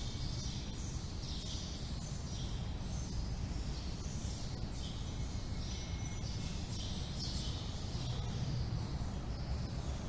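Small wind bells hanging around a Thai temple's ordination hall tinkling irregularly in the breeze, a high jingling cluster every second or so, over a steady low rumble of wind.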